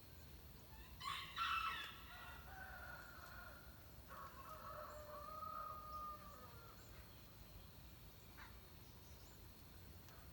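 A rooster crowing once, a long drawn-out crow that starts loud about a second in and trails off around six or seven seconds. A faint steady high tone runs underneath.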